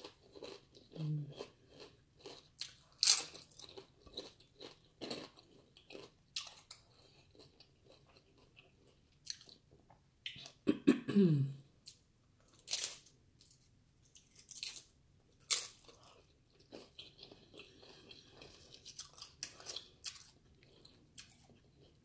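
Close-up chewing and crunching of crunchy tortilla-chip nachos, with irregular sharp crunches as chips are bitten and chewed. About halfway through comes one short falling hum from the eater's voice.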